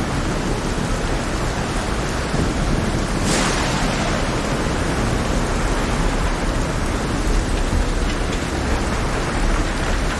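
Heavy rain pouring steadily over a deep, continuous thunder rumble, with one brief louder hiss about three seconds in.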